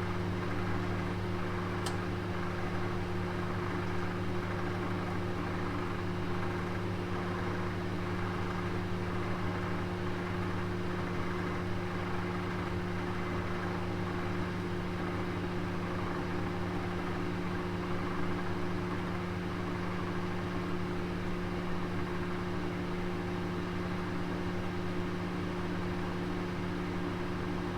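Oven running with a roast inside: a steady low hum with an even whooshing, fan-like noise over it, and one faint tick about two seconds in.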